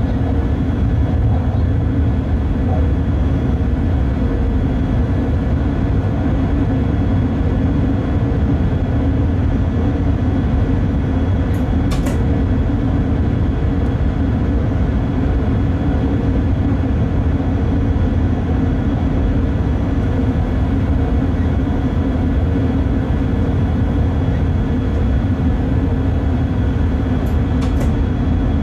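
Cab interior of a Bombardier TRAXX class 186 electric locomotive under way: a loud, steady rumble of wheels on the track, with faint steady tones above it. Two brief high squeaks come through, one near the middle and one near the end.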